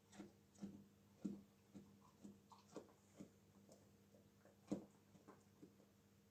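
Dog chewing and crunching a raw carrot: faint, short crunches about twice a second, with one louder crunch about three-quarters of the way through.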